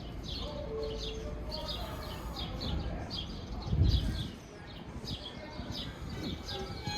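Small birds chirping repeatedly, about three short high chirps a second, over a steady low background rumble. A dull low thump comes about four seconds in.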